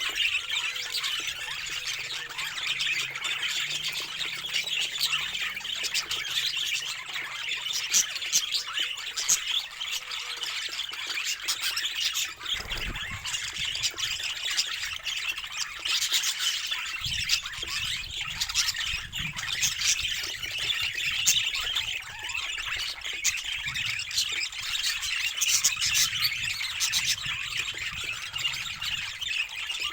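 Budgerigars chattering and squawking without a break, with many short, sharp calls over a steady warbling.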